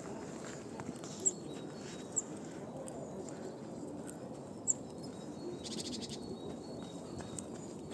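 Outdoor park ambience with a few short, high bird chirps spread through it and a brief patch of rapid small clicks about two thirds of the way in.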